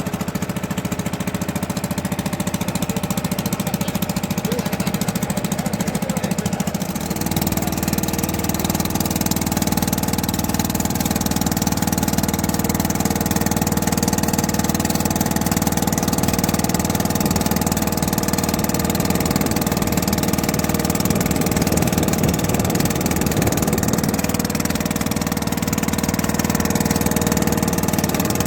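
A boat engine running steadily with a fast knocking pulse. About seven seconds in, its note changes and it runs a little louder, as under more throttle.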